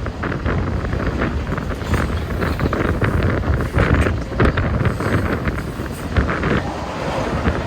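Canadian Pacific train passing with a steady low rumble, under heavy wind buffeting the microphone.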